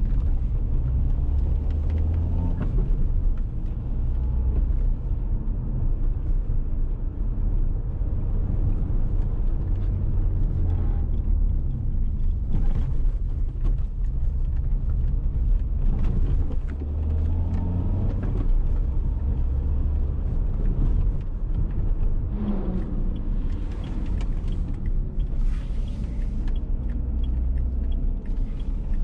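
Dacia Duster 1.6 SCe's naturally aspirated four-cylinder petrol engine and tyres giving a steady low rumble while driving. The engine note rises and falls a few times.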